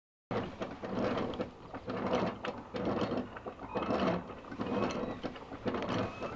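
Mechanical clattering and clicking in uneven surges about once a second, with a faint whine now and then.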